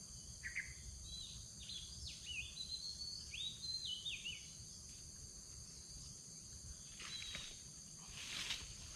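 A songbird calling a quick series of short whistled notes that swoop up and down, lasting about four seconds, over a steady high insect drone. Brief rustles come near the end.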